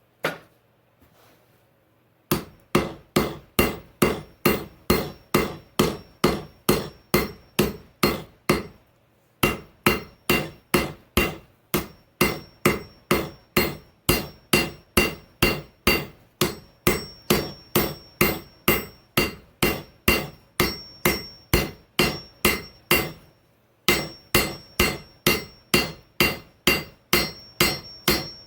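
Hammer blows on the hot steel of an old file over an anvil, forging down the handle section of a knife blank. There is one blow about a quarter second in, then steady hammering at about three ringing strikes a second from about two seconds in, with two short breaks.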